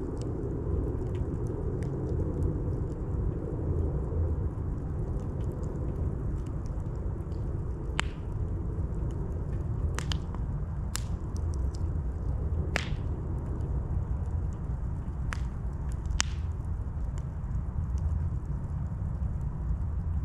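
Campfire burning: a steady low rumble with scattered sharp pops and cracks from the burning wood, about half a dozen of them in the second half.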